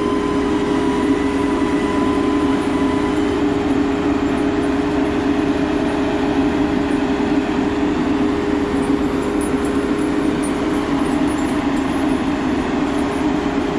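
Heavy diesel equipment running steadily under load, a loud constant drone with a steady hum. A thin higher tone fades out a few seconds in.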